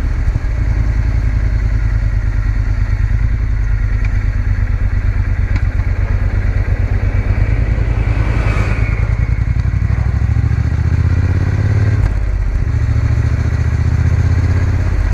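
Triumph Bonneville T120's parallel-twin engine running steadily while riding along, heard from the rider's position with wind rush. A brief whooshing rush comes about halfway through, and the engine note dips briefly later on.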